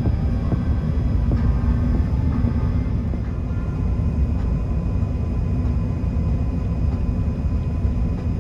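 Airbus A380 cabin noise: a steady low rumble of airflow and the Rolls-Royce Trent 970 engines, with faint steady engine tones above it.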